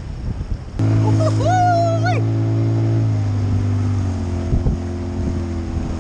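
Outboard motor of an inflatable rescue boat running with a steady hum. It starts abruptly about a second in and its note drops a step about three seconds in. A short high tone that rises and falls sounds over it near the start.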